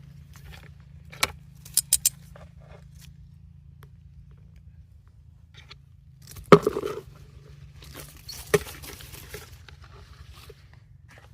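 A few sharp metallic clinks in quick succession, then two louder knocks a couple of seconds apart, each followed by rustling.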